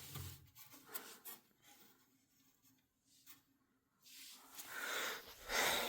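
Faint handling noise: a few light taps in the first second and a half, then a soft scraping rustle from about four and a half seconds in.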